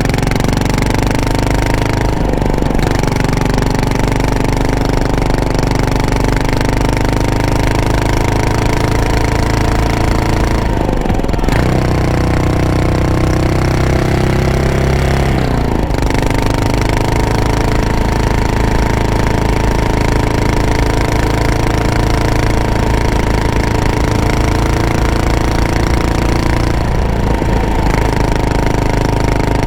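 Yamaha SR400's air-cooled single-cylinder four-stroke engine and exhaust running under way, its pitch climbing slowly and dipping briefly several times as the throttle is eased or gears are changed.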